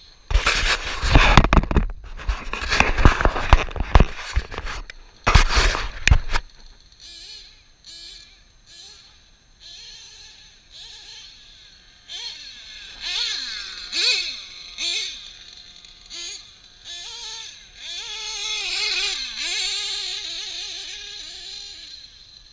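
Loud gusts buffet the microphone for the first six seconds. Then a distant nitro RC truggy engine, a drag-modified Novarossi .28, runs with its pitch wavering up and down as the throttle changes.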